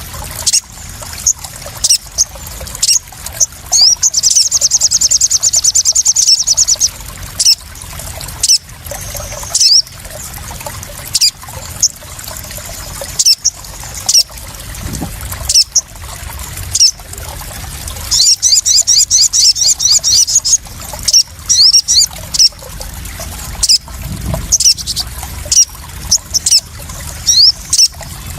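Water splashing and dripping, with high chirps of a crimson sunbird (sogon): a fast trill about four seconds in, another about eighteen seconds in, and single sharp chirps scattered between.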